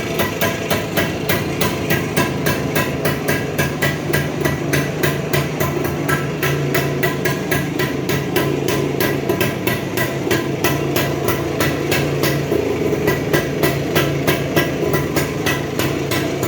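Rajdoot Bobby's single-cylinder two-stroke engine running at a slow, steady idle through its exhaust, with a regular sharp popping beat of about four to five pulses a second.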